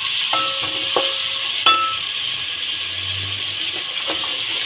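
Garlic and ginger paste sizzling in hot oil in a metal pot, stirred with a spoon that knocks and scrapes against the pot a few times, making it ring briefly.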